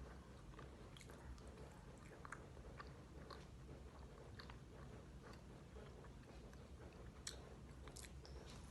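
Faint chewing and biting: soft crunches and scattered mouth clicks of someone eating, over a low steady hum.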